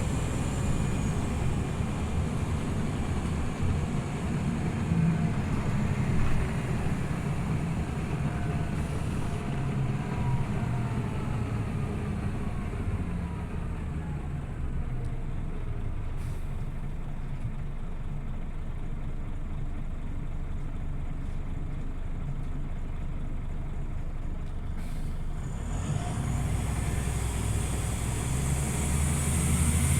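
Scania OmniLink CL94UB city bus running, its diesel engine drone steady with a whine that slides down in pitch in the first half as the bus slows. About 26 s in, the engine picks up and grows louder again.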